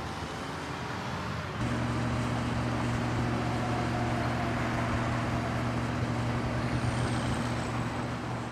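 Car engine running with a steady low hum, which comes in suddenly about one and a half seconds in.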